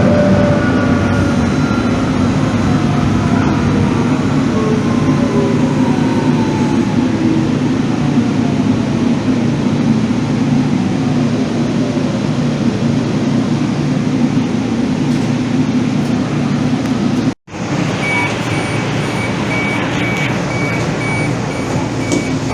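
Calgary Transit light-rail train running, its motor whine falling slowly in pitch as it slows. After a brief cut, a steady electronic beeping repeats about twice a second over the running noise.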